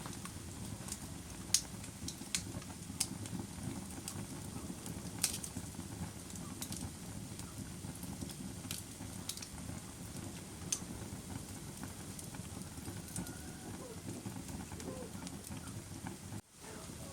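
Wood fire burning with a steady low rumble and sharp crackles and pops at irregular intervals. The sound cuts out briefly near the end.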